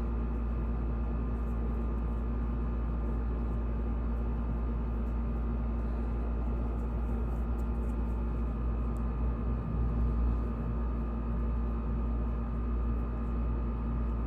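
Steady low drone with a constant hum over it, swelling slightly about ten seconds in.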